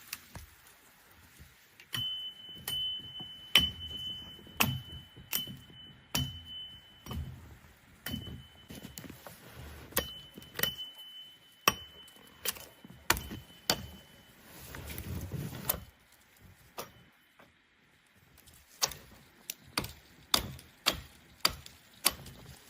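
Irregular sharp taps and knocks on hard objects, some of them setting off a high ringing note that hangs for a few seconds, with soft low thumps between, as of tools or gear being handled at a work site.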